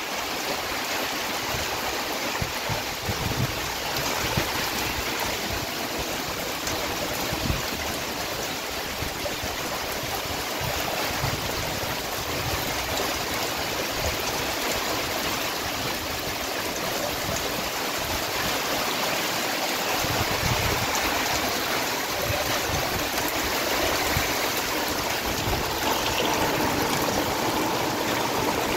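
Heavy rain pouring down steadily: a dense, even hiss with scattered low thumps.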